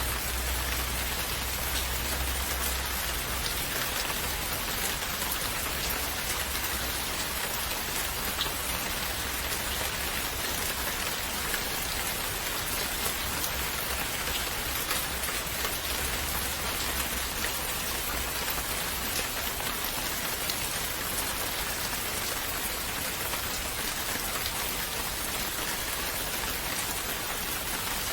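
Steady rain falling, an even dense hiss with scattered individual drops ticking, and a low rumble in the first few seconds.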